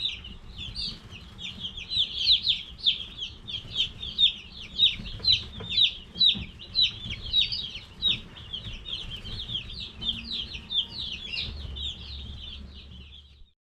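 A flock of baby Cornish Cross meat chicks peeping, many short high chirps overlapping in a continuous stream; the sound cuts off just before the end.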